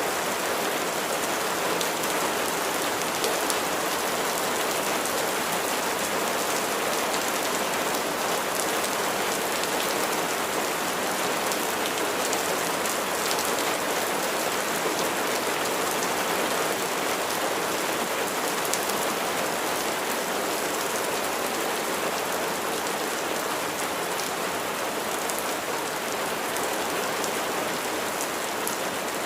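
Steady rain falling on a surface, an even patter of raindrops with fine individual drop ticks.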